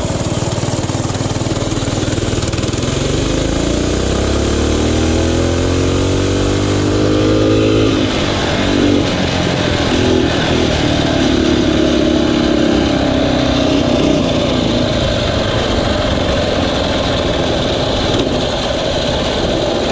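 Mini bike engines running. One revs up, its pitch rising steadily for several seconds from about three seconds in, then lets off sharply. Uneven engine running carries on after that.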